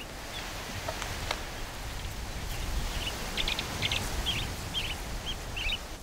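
A small bird calling, a quick series of about eight short high chirps starting about halfway through, over a low steady rumble.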